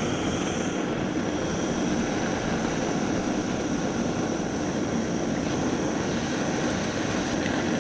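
Gas torch flame burning with a steady hiss, heating a copper pipe joint before it is soldered.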